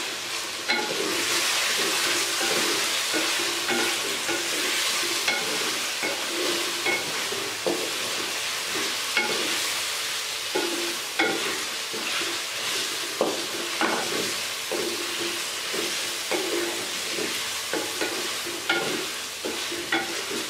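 Chicken with ginger-garlic paste sizzling in oil in an aluminium pot, stirred with a wooden spatula that scrapes and knocks against the pot every second or so. The sizzle gets louder about a second in.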